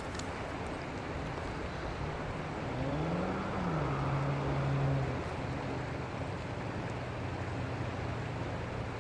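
Steady rush of river water with a motor vehicle engine over it. The engine rises in pitch about three seconds in, then drops back to a steady lower pitch and fades after about five seconds.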